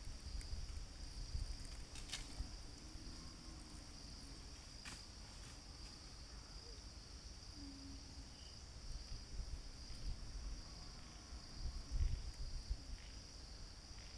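A steady, high-pitched chorus of insects such as crickets runs throughout. Under it come low rumbles and a few faint clicks, with the loudest low thump about twelve seconds in.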